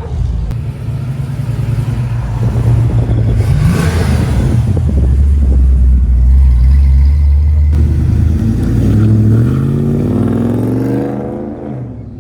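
Car engine running loud as it drives by, climbing in pitch as it accelerates near the end, then fading away.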